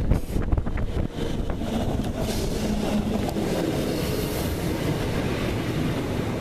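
Electric multiple-unit passenger train running past along the platform, with a steady rolling rumble and a quick run of wheel clicks over rail joints in the first second or so.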